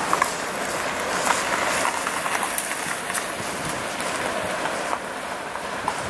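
Rear of a freight train of covered hopper cars rolling away: steady wheel-on-rail rumble and hiss with scattered sharp clicks, easing slightly about five seconds in.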